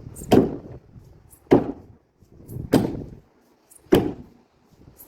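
Four heavy knocks at an even pace, a little over a second apart, each dying away quickly.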